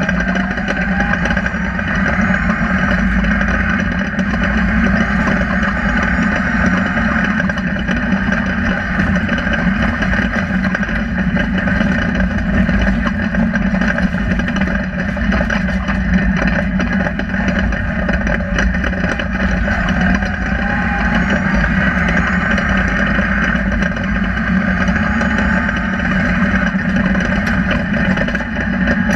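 Rally car engine running hard under load, heard from inside the cabin, its pitch climbing in short rises several times as the car accelerates through the gears, over a steady rumble of road and drivetrain noise.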